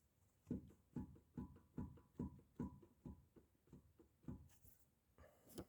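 Left drive shaft of a BMW F30 knocking: about ten evenly spaced knocks, roughly two and a half a second, each with a faint metallic ring. This is the drive shaft knock fault. A short scraping rustle follows near the end.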